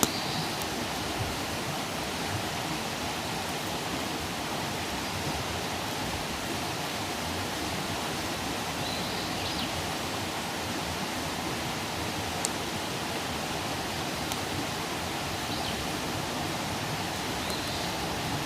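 Campfire burning with a steady hiss and a few sharp pops, about one near the start and two a little past halfway.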